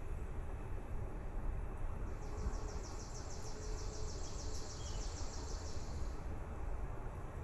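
A high-pitched, rapidly pulsing animal trill, about seven pulses a second, starts about two seconds in and lasts some four seconds, over a steady low rumble.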